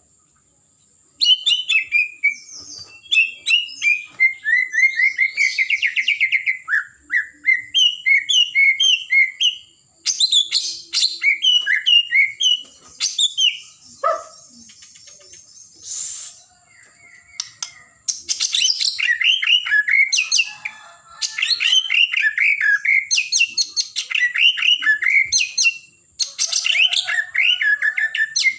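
White-rumped shama (murai batu) singing loud, rapid phrases of varied whistles, chirps and trills, with short pauses between bursts of song.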